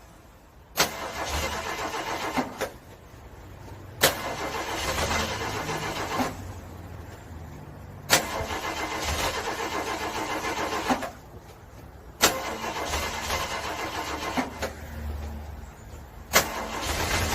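Car engine being cranked by its starter in the cold, in five separate attempts a few seconds apart. Each attempt opens with a sharp click and runs for two to three seconds of churning cranking, then stops without the engine settling into a run: a cold engine that will not start.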